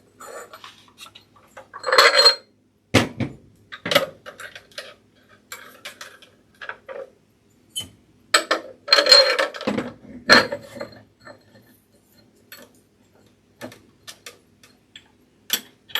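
A metal bolt and nut clinking against a glass mason jar as they are fitted by hand: irregular clicks and clinks, with louder rattling clusters about two and nine seconds in.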